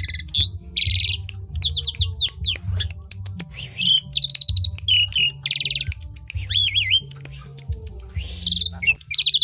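Asian pied starling (jalak suren) singing at full tilt: a rapid, varied run of chirps, buzzy rattling notes and gliding whistles with mimicked phrases, over a steady low hum.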